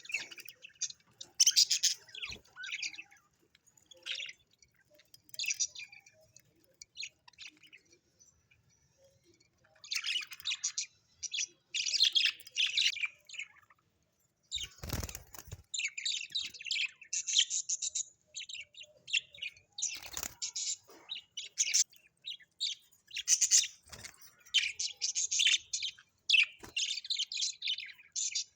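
Small birds chirping and twittering in quick high-pitched bursts, with short pauses between phrases. A brief rustling knock cuts in about halfway through, and a few fainter ones follow.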